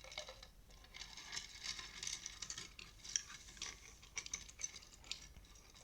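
Crisp rustling with many small clicks and ticks, as of small objects being handled and moved about, continuing throughout.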